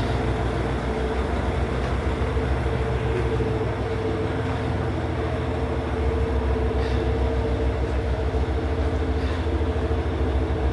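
Diesel engine of a KiHa 40 railcar running steadily, a constant low rumble with a steady hum.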